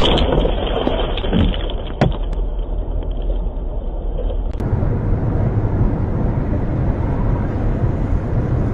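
Car driving: a steady low rumble of engine and road noise, with a sharp click about two seconds in.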